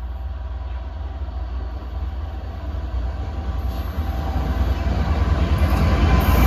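Heavy diesel freight locomotive approaching, its deep engine rumble growing steadily louder.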